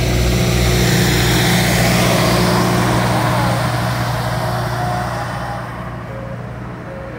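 Motor vehicle engine running with a steady hum, loud at first, then fading away in the last couple of seconds as the engine note drops out.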